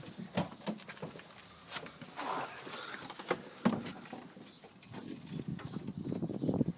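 Faint scattered clicks and knocks of keys and handling. Near the end a fast, low rattle builds and grows louder as the starter begins cranking the BMW M70 V12.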